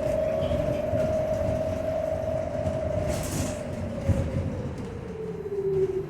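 Electric traction motor of a New Flyer XT40 trolleybus whining, holding pitch and then falling steadily as the bus slows, over a low running rumble. A short hiss about three seconds in. This is the bus the uploader calls weird sounding.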